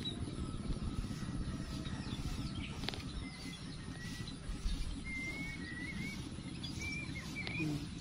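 A small bird chirping a run of short, warbling whistled notes from about halfway through, over a steady low rumble.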